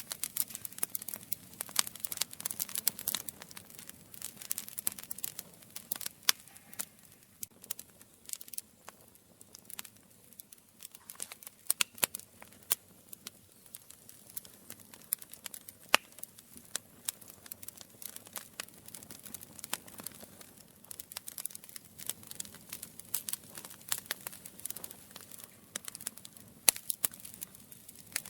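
Campfire crackling: burning wood giving off irregular quick pops and snaps, a few of them louder, over a faint hiss.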